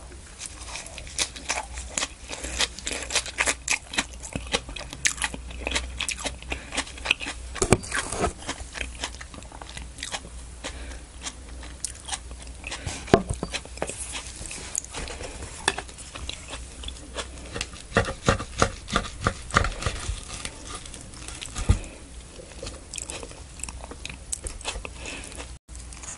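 Close-miked chewing of a mouthful of fresh leafy salad greens: irregular crisp crunches with wet mouth sounds.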